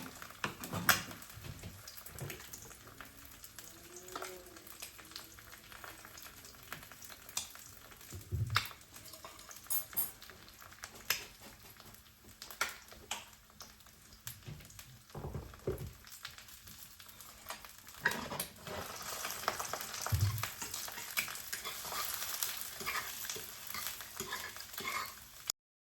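An egg frying in a pan, with scattered clicks and knocks of a utensil against the pan. The sizzling grows louder about eighteen seconds in and cuts off suddenly near the end.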